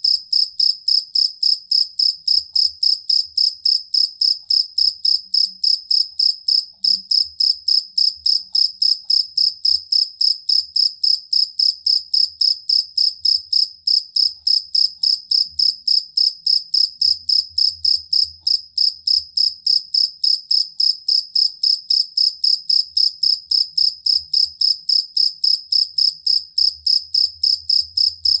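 A jangkrik kalung (two-spotted field cricket) singing a loud, steady calling song: short, evenly spaced chirps, about three to four a second, with a high pitch.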